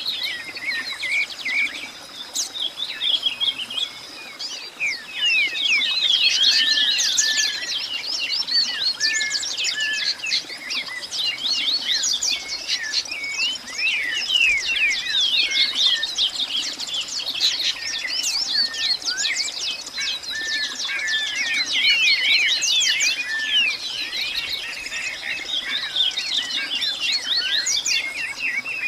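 A dense chorus of many birds chirping and calling at once, short quick notes overlapping without pause, over a thin steady high-pitched whine.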